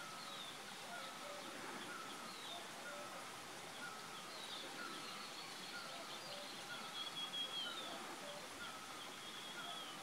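Birds calling: a steady series of short falling notes repeated about every three-quarters of a second, typical of a great barbet's song. Other birds give higher whistles over it, the longest about seven seconds in.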